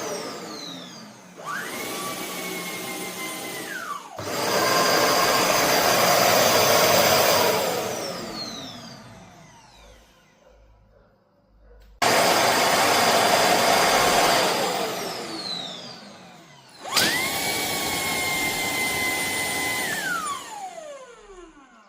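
Shark PowerDetect cordless vacuum motor switched on and off several times. Twice, a high whine spins up, runs steadily for a few seconds, then winds down with falling pitch. In between come two louder rushes of air, each starting abruptly and fading out over a few seconds.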